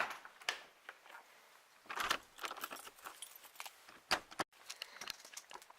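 Irregular clinking and rattling of small hard objects being handled, with louder knocks about two seconds in and again about four seconds in.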